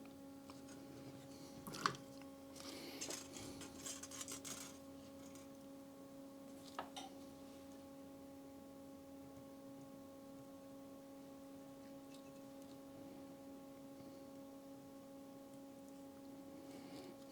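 A steady low hum with evenly spaced overtones, with a few soft clicks and rustles from handling small parts: a sharp click about two seconds in, a cluster of rustling between three and five seconds, and another click near seven seconds.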